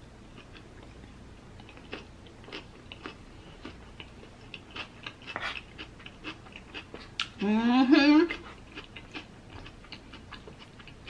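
Close-up chewing and eating mouth sounds with small scattered clicks. About seven and a half seconds in comes a loud vocal sound, about a second long, rising in pitch.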